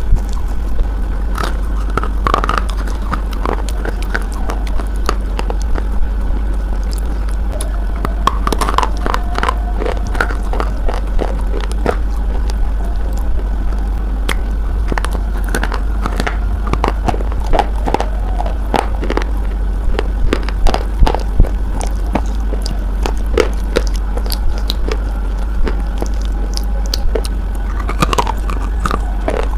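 Close-up biting and crunching of a hard, chalky white bar, with many sharp crackling clicks at an uneven pace over a steady low electrical hum.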